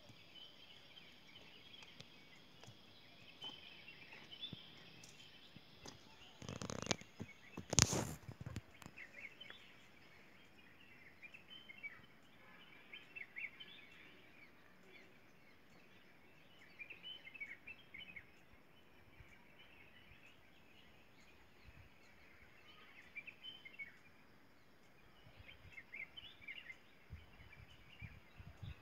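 Birds chirping: many short, high calls scattered throughout over a faint outdoor background hiss. About seven and eight seconds in, two brief loud noises stand out above the birdsong.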